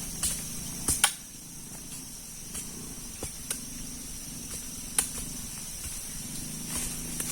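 Steady high-pitched insect chorus with scattered sharp knocks and clicks, the loudest a pair about a second in and another near five seconds.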